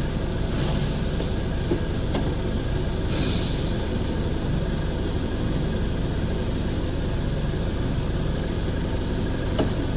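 Steady low mechanical hum of running machinery, with a few faint clicks.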